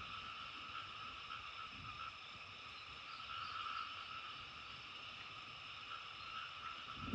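A steady, dense chorus of frogs calling, with a short dull low thump right at the end.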